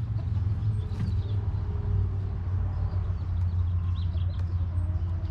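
A steady low rumble, with a few faint chirping bird calls about four seconds in.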